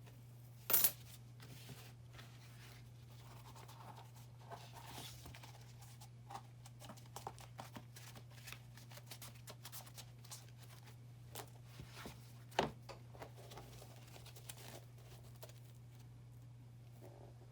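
Light scratching and scattered small clicks of hand work on a leather sneaker, with two sharper clicks, one near the start and one about two-thirds through, over a steady low hum.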